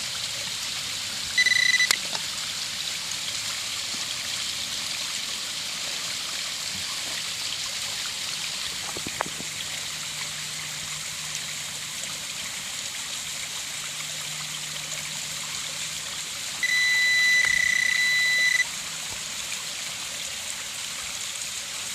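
Shallow stream water running steadily over bedrock, with two steady electronic beeps from a metal detector signalling a target: a short one near the start and a longer one of about two seconds later on.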